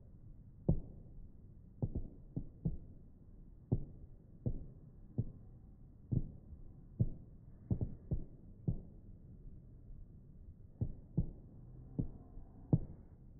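Distant fireworks shells bursting: a string of dull, low booms at irregular spacing, sometimes two close together, over a steady low background.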